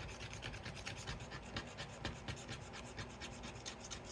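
Rapid, rhythmic scraping of a scratcher tool rubbing the black scratch-off coating from a paper savings-challenge sheet, several strokes a second.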